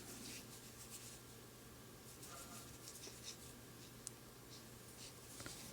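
Faint rustling of yarn and a crochet hook as stitches are worked, with a small tick about four seconds in, over a low steady hum.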